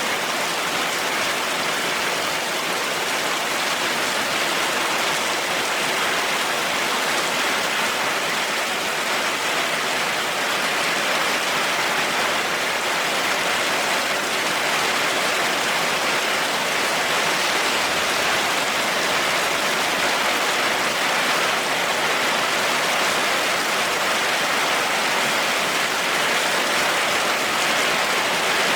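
Heavy rain falling steadily, an even hiss of drops with no change in strength and no thunder.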